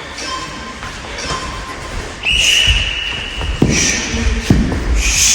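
A steady high signal tone lasting about a second, then a rapid series of dull thuds as karate punches and kicks land on a rolled striking target, several hits in quick succession in the second half.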